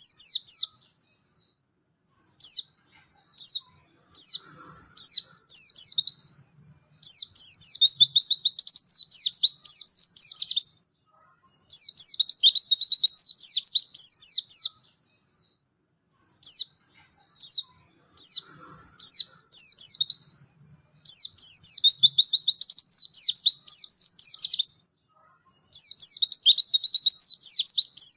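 White-eye (pleci) singing a loud, rapid, high-pitched twittering song in phrases of a few seconds each, separated by short pauses.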